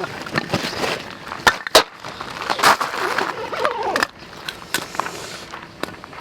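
Irregular sharp knocks and clatter of hard objects being handled and set down, several strikes close together about a second and a half in and more near the end.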